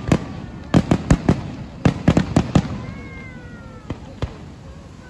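Aerial fireworks bursting: a rapid run of sharp bangs and cracks in clusters, fewer and softer after the first two and a half seconds, with two last reports near four seconds. A thin falling whistle-like tone sounds around three seconds in.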